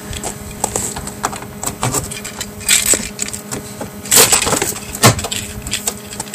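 Irregular crunching and cracking, like footsteps on icy, crusted snow, with a few louder crunches about three, four and five seconds in.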